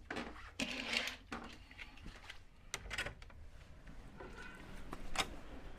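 A door being opened, with several scattered knocks and clicks and a short rush of handling noise about a second in.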